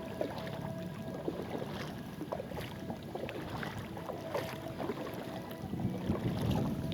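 Kayak paddling: water splashing and dripping from the paddle strokes, with a faint steady tone underneath and a low rumble that grows near the end.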